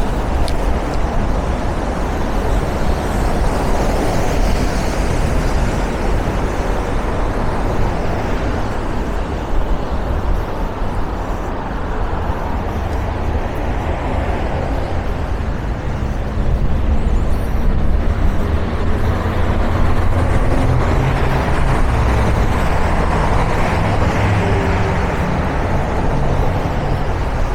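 Busy city avenue traffic: cars passing one after another, the noise swelling and fading as each goes by, with a heavier engine hum joining in past the middle.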